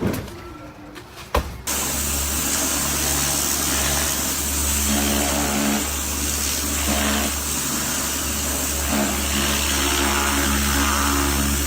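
A motor or engine running steadily at one speed, starting abruptly about a second and a half in after a sharp click.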